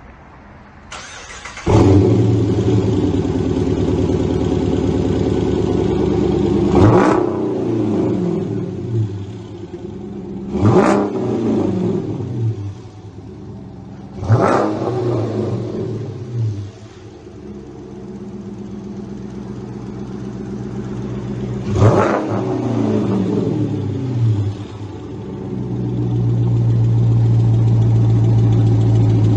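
2016 Dodge Challenger R/T's 5.7 L HEMI V8 through a single-chamber V-tube muffler exhaust, with factory cats and dual black tips. It starts up about two seconds in and settles into idle. It is blipped four times, each rev rising quickly and falling back to idle, and the idle grows louder near the end.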